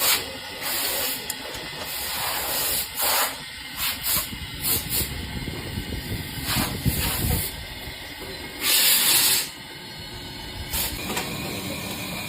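Railway locomotive running, with a steady low rumble and repeated short bursts of hissing at uneven intervals, one longer hiss lasting about a second near nine seconds in.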